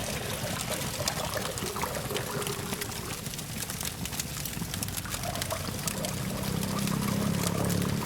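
Campfire crackling with many quick sharp pops over the fire's hiss, with a low hum of distant traffic underneath that grows louder about three-quarters of the way through.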